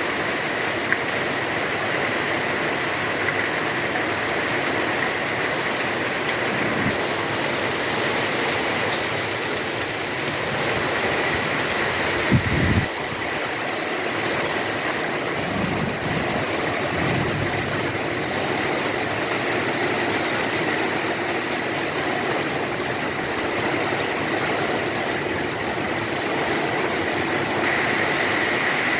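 Heavy rain falling steadily, a dense even hiss, with a brief low thump about halfway through.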